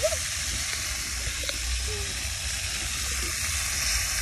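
Shrimp frying in a pan, a steady sizzle with a low rumble underneath.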